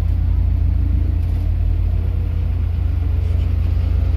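Heavy diesel engine of earthmoving machinery running with a steady low rumble.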